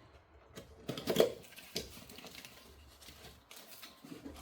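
Unboxing handling noise: packaging and small lighting parts being picked up and moved, a run of light clicks and rustles with a louder rattle about a second in.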